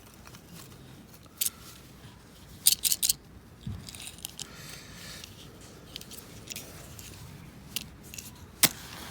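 Light metallic clinks and rattles of gear being handled: a single clink, a quick jangling cluster about three seconds in, and another sharp clink near the end, with soft rustling in between.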